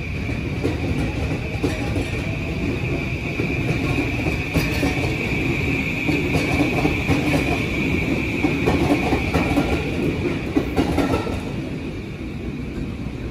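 JR E217-series electric commuter train pulling in alongside the platform: steady rumble with wheel clicks over the rail joints, easing off near the end as it slows. A steady high whine runs throughout.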